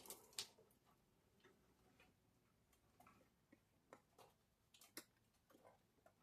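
Near silence with faint, small clicks at irregular spacing, about one every half second, from a model train on its layout track.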